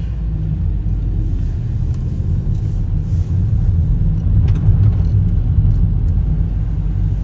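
Car driving, heard from inside the cabin: a steady low rumble of engine and road noise that grows slightly louder partway through as the car gathers speed.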